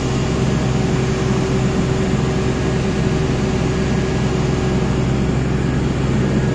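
Diesel engine of a Massey Ferguson CS6050 tracked combine harvester running steadily under load, with a constant whine over the engine drone.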